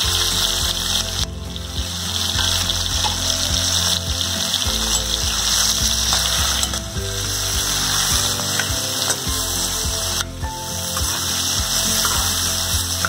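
Giant freshwater prawns sizzling in hot mustard oil in a steel kadai, with a steady hiss. A metal spatula clicks and scrapes against the pan as they are turned.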